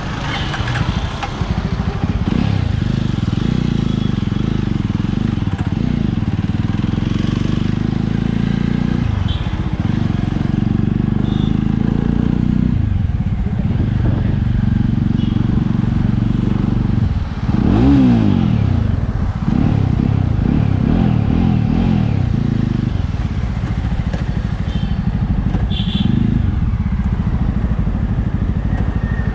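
Jawa Classic 300's single-cylinder engine and exhaust running under way, the revs climbing and dropping again and again as the rider works through the gears. There is one sharp fall and rise in revs about two-thirds of the way in.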